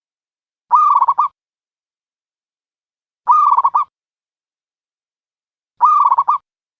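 A dove cooing: the same short call repeated three times, about every two and a half seconds. Each call opens with a drawn note and breaks into a few quick pulsed coos.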